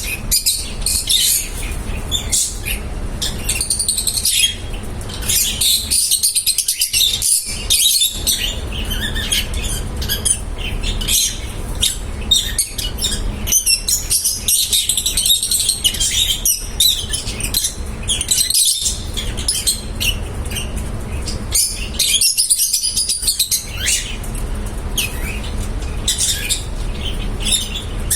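Lovebirds chirping and tweeting almost without pause, many short high calls overlapping, over a steady low hum.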